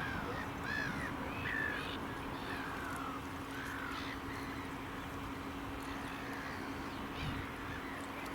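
Gulls calling: a run of short, arching cries in the first few seconds, then a few scattered ones, over a steady low hum.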